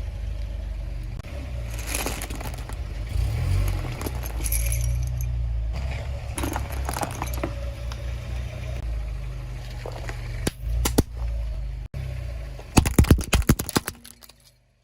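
Small plastic toy vehicles being handled, knocking and clicking against each other and a hard surface, over a steady low rumble; near the end comes a quick run of louder clatters.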